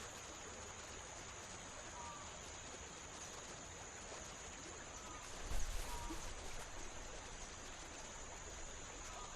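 Quiet background ambience: a steady hiss with a few faint short chirps, and a low thud about five and a half seconds in.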